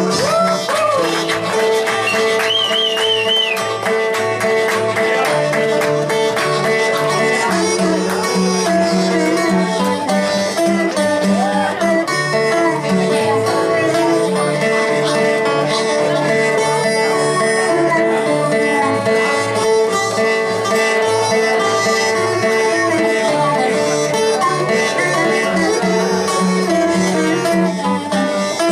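Live acoustic blues band playing an instrumental passage: plucked guitar with harmonica, with no singing.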